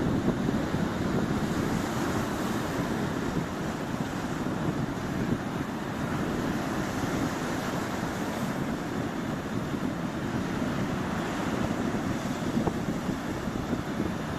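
Sea waves washing onto the shore, a steady rushing with wind buffeting the microphone.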